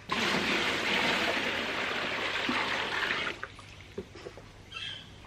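Water pouring into a washtub for hand-washing laundry, a steady rush that stops about three seconds in, followed by a few small knocks.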